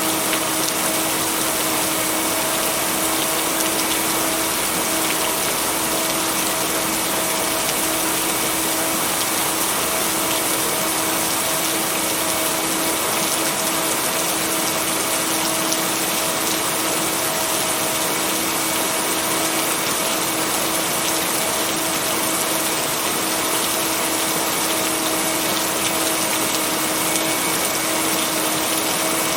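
Steady heavy rain, an even hiss with no thunder, with a steady low humming tone held underneath it, the kind of blended binaural-beat tone used in sleep tracks.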